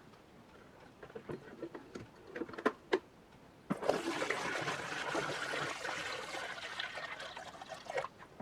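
A few light knocks, then water running for about four seconds, starting suddenly and dying away near the end.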